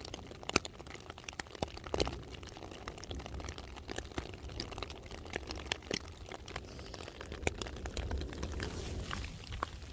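Hail and rain hitting a tent: many sharp ticks at irregular intervals over a steady hiss, with a low rumble underneath.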